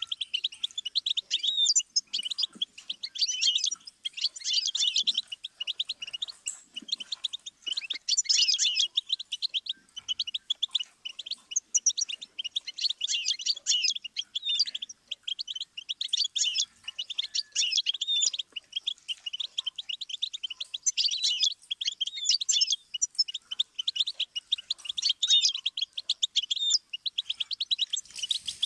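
Goldfinch singing: fast, high-pitched twittering and trilling phrases of a second or two each, repeated with short pauses between.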